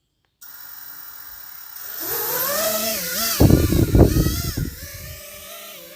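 FPV quadcopter's electric motors whining, their pitch climbing as the throttle comes up about two seconds in, then rising and dipping repeatedly with the stick. A loud low rumble breaks in for about a second in the middle.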